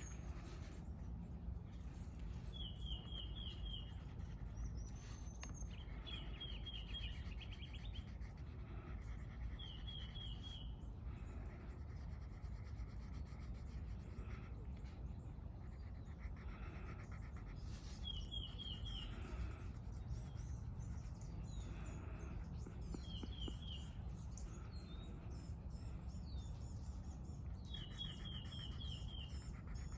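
A bird repeating a short run of four or five quick, high chirps about every four to five seconds, over a steady low outdoor rumble. Soft scratching of colouring on paper runs underneath.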